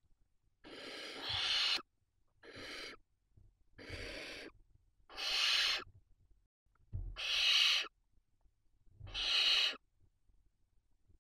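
Barn owl nestlings giving six raspy, hissing calls, each about half a second to a second long, repeated every second and a half to two seconds.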